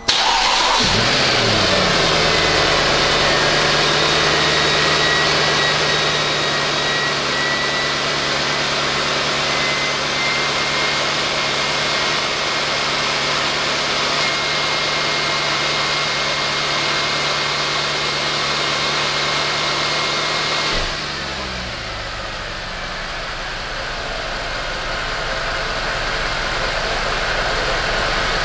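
Mercedes-AMG M156 6.2-litre V8 starting straight away. Its revs fall from the start-up flare into a steady high idle within a couple of seconds, then drop to a lower, quieter idle about 21 seconds in. This is the first start on freshly fitted fuel injectors, and the engine runs smooth.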